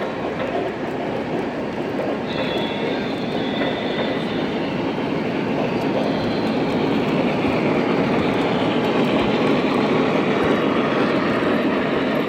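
Model train running on its track: a steady rolling rumble of wheels on rail, with a faint high wheel squeal for a few seconds starting about two seconds in.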